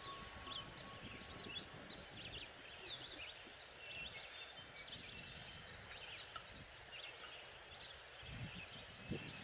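Small birds chirping and twittering faintly, many short high notes with a quick falling run about two seconds in, over a light outdoor hiss.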